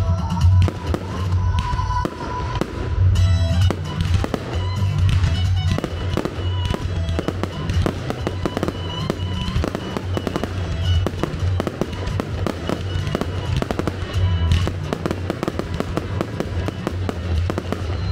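A fireworks display, with rapid crackling and popping from rising comets, fountains and star bursts throughout. Music plays with a heavy pulsing bass.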